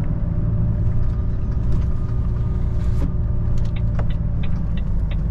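Steady low rumble of a semi-truck's diesel engine heard inside the cab. About three and a half seconds in, a run of short, evenly spaced ticks begins, about three a second, like a turn-signal indicator clicking.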